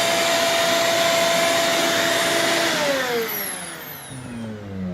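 Vacuum cleaner motor running steadily as it draws soapy cleaning solution through its hose, then switched off about two and a half seconds in, its whine falling in pitch as the motor winds down.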